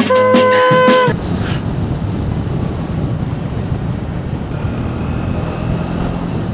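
Background music cutting off about a second in, then a motorcycle running steadily at riding speed with wind rushing over the microphone.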